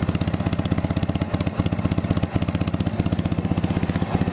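Ural flat-twin motorcycle engine idling through a 'bomba' muffler, with a fast, even, bassy exhaust beat.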